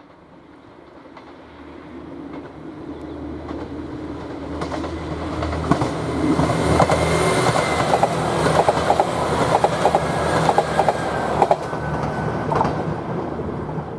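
A 2000-series diesel tilting train approaching and passing. The engine drone grows steadily louder over about six seconds, then the wheels clatter rapidly over the rail joints for several seconds before the sound eases off near the end.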